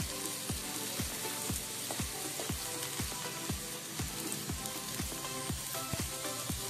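Oil sizzling steadily as strips of pumpkin peel and sliced onion stir-fry in a pan, tossed with a wooden spatula. Background music with a steady beat runs underneath.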